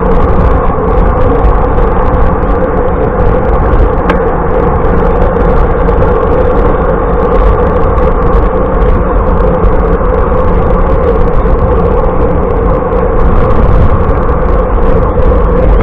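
Loud, steady rush of wind and road noise from riding a bicycle, heaviest in the low end.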